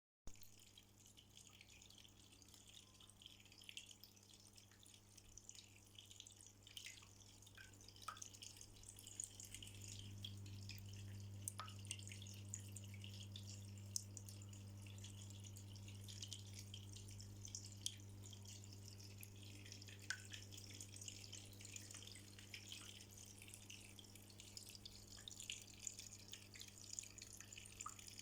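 Indoor decorative waterfall: water trickling, faint, with many small drips and splashes. A low steady hum runs underneath, a little stronger from about ten seconds in.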